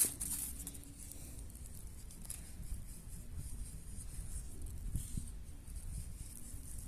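Soft, small handling sounds: light rustling and scattered faint taps over a steady low outdoor hiss, with one slightly louder tap about five seconds in.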